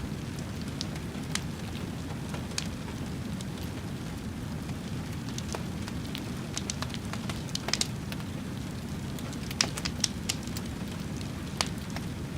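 Wood fire burning with a steady low rumble and irregular sharp crackles and pops, a few louder pops in the second half.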